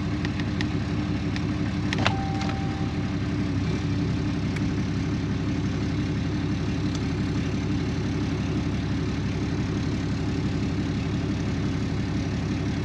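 2017 Ram 2500 pickup engine idling steadily. A few light clicks come in the first couple of seconds, and about two seconds in a sharper click is followed by a short electronic beep lasting about a second.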